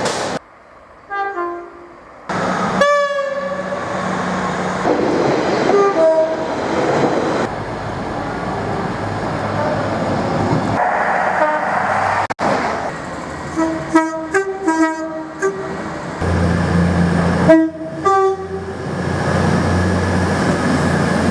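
A run of short clips of trains sounding their horns: several brief horn blasts at differing pitches, some as quick runs of notes, over the rushing noise of moving trains, with abrupt cuts between clips.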